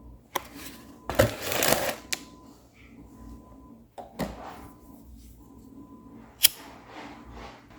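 Household handling noises: a short rustle a little over a second in, and a few sharp clicks and knocks, the sharpest about six and a half seconds in.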